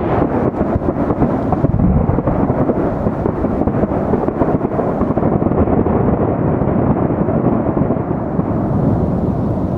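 Fireworks bursting in quick succession into a continuous thunder-like rumble, with a fine crackle on top that thins out in the first couple of seconds; the rumble carries on and eases slightly near the end.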